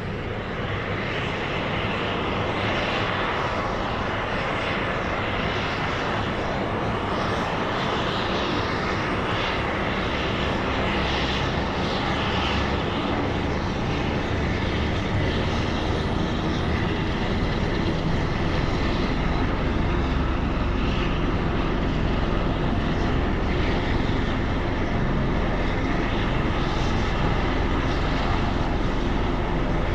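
Helicopter turbine engine and rotor running steadily, gradually getting louder.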